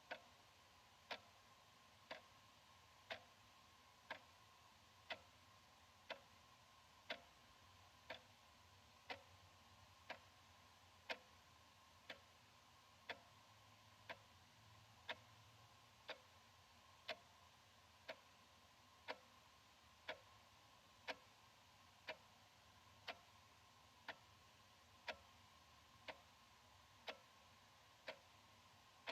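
Analog wall clock ticking steadily, one short, quiet tick each second.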